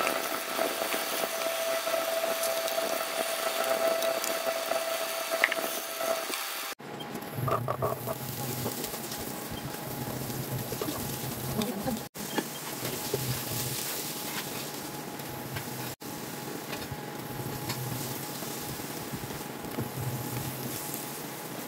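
Diced potatoes, then diced carrots, sizzling as they fry in oil in a pan, with a spatula stirring through the carrots. A steady tone runs under the sizzle for the first six seconds, and the sizzle breaks off briefly at three cuts.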